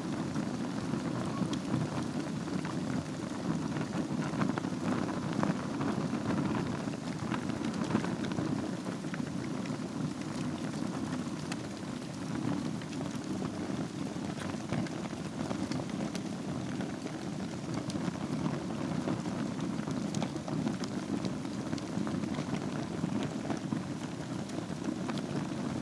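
Wood fire burning steadily in a fireplace: a constant low rush of flame with many small crackles and pops scattered throughout.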